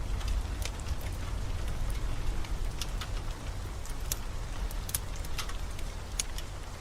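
Steady rain with a deep low rumble underneath, and a wood fire crackling: about ten sharp, irregular pops scattered through.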